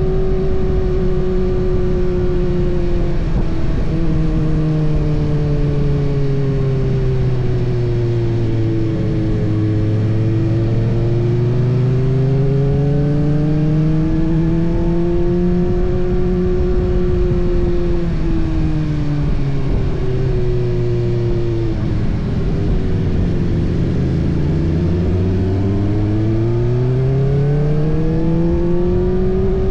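Kawasaki ZX-6R's 636 cc inline-four engine under way, its revs falling and climbing smoothly several times as the rider rolls off and opens the throttle. Lowest about ten seconds in and again near three-quarters through, rising toward the end, over a steady noisy rush.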